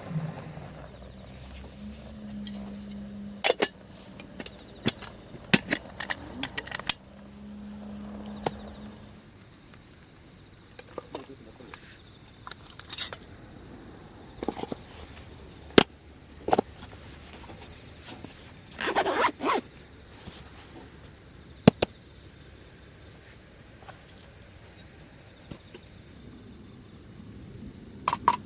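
Insects trilling steadily, a continuous high tone with a faster pulsing one just above it. Scattered sharp clicks and knocks come through over it, most of them in the first seven seconds, with a short clatter about two-thirds of the way in.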